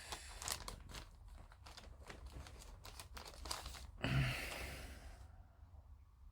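Crinkling of a thin plastic bag as the kit's clear-parts sprue is handled, a run of small crackles, with a louder rustle about four seconds in.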